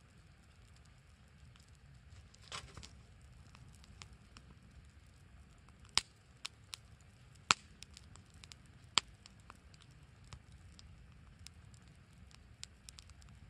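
Firewood burning in a small campfire, crackling with scattered sharp pops. Three loud pops come a second and a half apart around the middle.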